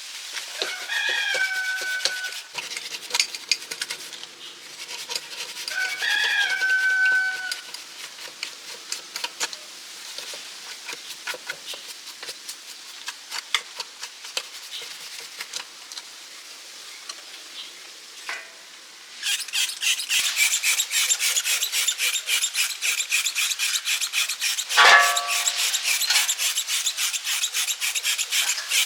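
A rooster crowing twice in the background, then from about two-thirds in, rapid rasping strokes of hand sanding, with another crow near the end.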